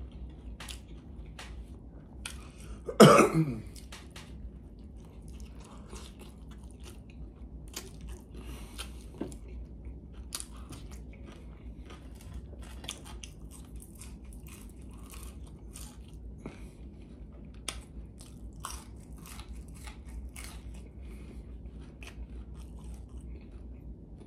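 A person chewing and biting food, with many short wet mouth clicks and crunches, and one louder sharp sound about three seconds in.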